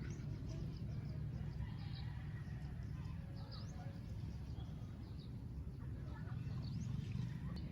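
Outdoor ambience: a steady low rumble, with a few faint, short bird chirps scattered through it.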